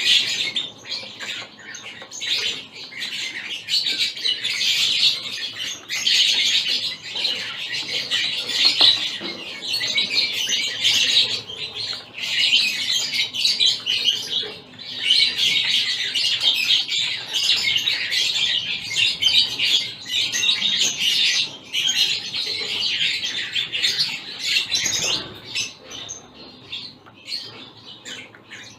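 A mixed flock of small finches, zebra finches among them, chattering and chirping together in an aviary: a dense, high twittering that runs on with only brief lulls.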